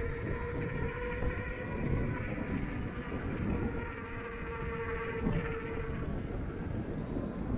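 Electric bike motor whining steadily while riding, over a low rumble of wind buffeting the microphone.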